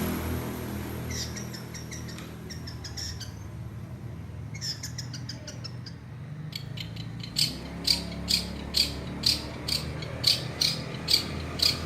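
Long-tailed shrike (cendet) mimicking lovebird calls: quick runs of short, sharp, ratchet-like chirps that settle into a loud, regular chirp about twice a second near the end.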